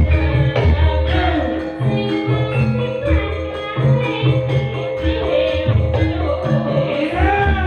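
Loud live Javanese Sragenan gamelan music, with heavy rhythmic drum beats under sustained pitched instruments and jingling percussion.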